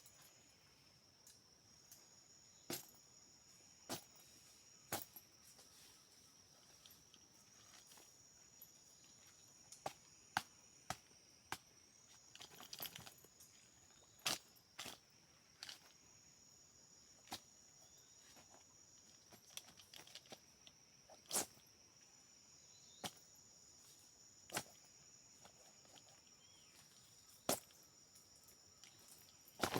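Steady, high-pitched insect chorus of crickets or similar forest insects, with a second higher trill coming and going. Irregular sharp clicks and knocks break in throughout, some clustered about halfway through.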